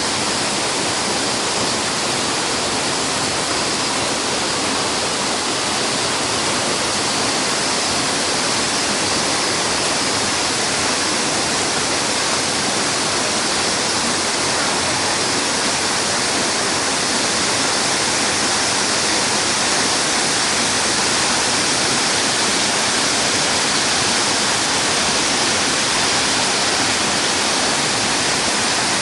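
Minoo Falls, a waterfall in heavy flow after days of rain, pouring steadily into its plunge pool: a loud, even rush of falling water.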